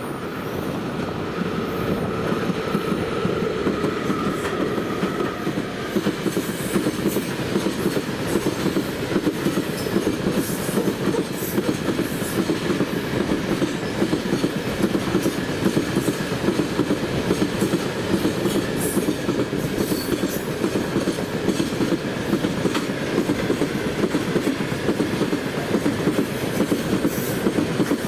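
Freight train of gondola cars hauled by a VL80S electric locomotive rolling past, the wagon wheels clattering steadily over the rail joints. A faint steady whine in the first few seconds fades out.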